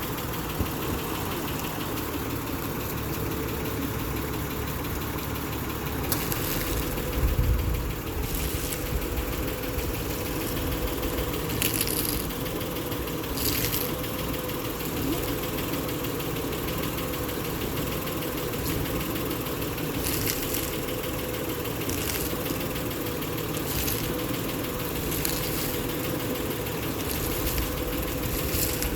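Honda Odyssey's 3.5 V6 idling steadily with a wavering hum while the steering wheel is turned back and forth, checking for a noise the van made when steering. Scattered short clicks and knocks, with a thump about seven seconds in.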